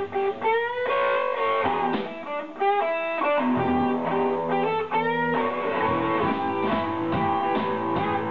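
Live band playing a blues-rock song: an electric guitar plays a lead line with string bends over the rest of the band.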